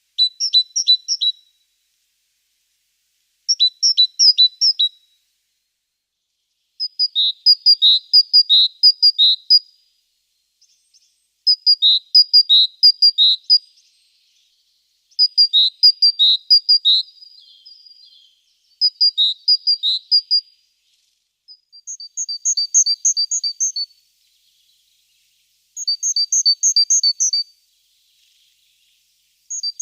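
A songbird singing: phrases of quick, high, repeated notes, each lasting a second or two, with a new phrase every few seconds.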